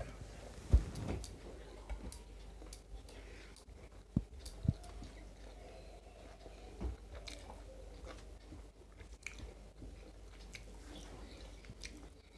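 Chewing and eating by hand: soft mouth sounds of a mouthful of rice and broccoli butter fry being chewed, with scattered small clicks and a few louder short knocks.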